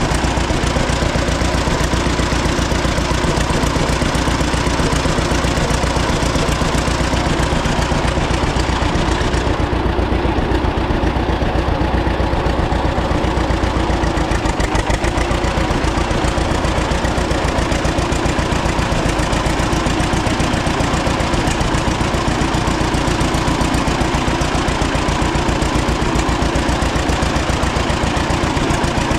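1936 John Deere A's two-cylinder engine running steadily at idle, with the even pulsing beat of its firing strokes.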